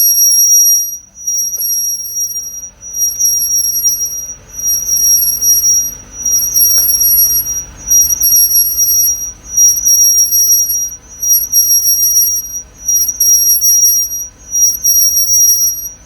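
High-pitched brake squeal from the right rear disc brake of a car turning on a lift, pulsing about once every 1.3 seconds, once per wheel turn. The noise is still there after the pads were removed and sanded. A low hum runs beneath it.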